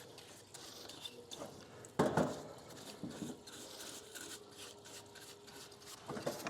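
Small hand tool scraping and picking at hardened grime on a Stihl 500i chainsaw's body and cylinder head, a run of fine irregular scratches, with one louder clack about two seconds in.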